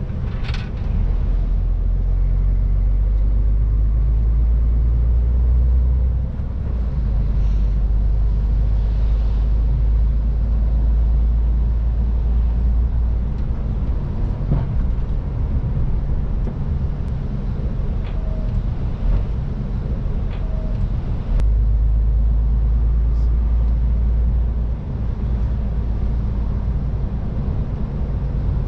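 MAN TGX 18.510 semi-truck's straight-six diesel running on the road: a steady deep drone of engine and road noise. The low rumble swells for a few seconds twice, near the start and again past the middle.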